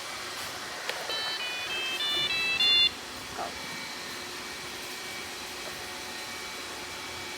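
Robot vacuum running with a steady whir; about a second in it plays a short electronic melody of stepped beeping notes that lasts about two seconds.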